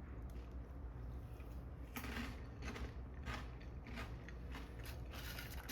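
A person chewing egg salad with crisp pork skins. From about two seconds in comes a run of crunches, roughly two a second.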